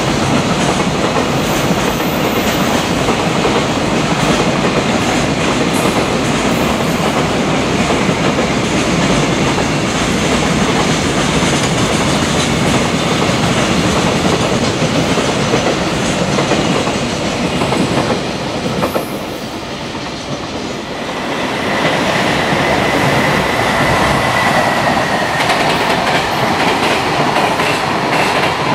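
Long freight trains running past at speed: wheels clattering over the rail joints and wagons rumbling, easing off about two thirds of the way in. Then another freight train runs past, with a high steady whine that slowly falls in pitch over its running noise.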